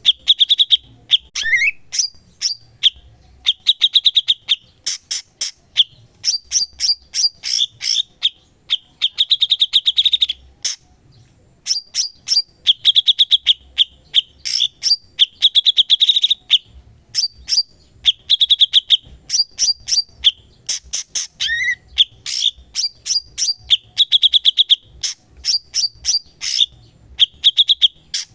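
A cucak cungkok singing vigorously (gacor): rapid phrases of short, sharp chirping notes, some running into fast trills, with a brief pause about 11 seconds in.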